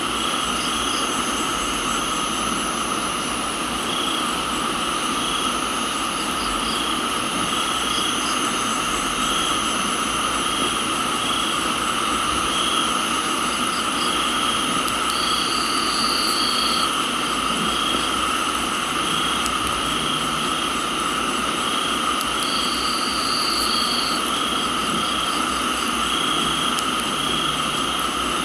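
A steady, layered chorus of crickets and other insects, with one call pulsing about once a second and a higher buzz breaking in twice for a second or two, over a constant hiss of rain.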